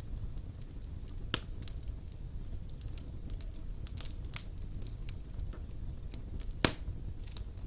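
Wood fire burning in a fireplace: a steady low rumble with scattered crackles and pops, the loudest pop a little past halfway.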